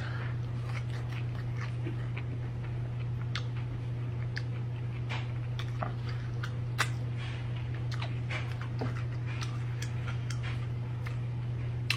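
A person chewing and lip-smacking close to the microphone while eating chicken, with irregular wet clicks and smacks, over a steady low hum.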